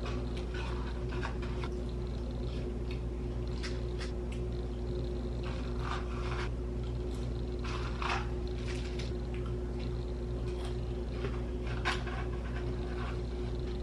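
A steady low hum with a fixed tone, with scattered rustles and light clicks and knocks over it; the sharpest knocks come about eight and twelve seconds in.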